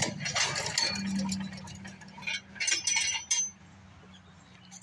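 Light metallic clinking and tapping, a run of quick clinks in the first three seconds or so, over a faint steady low hum.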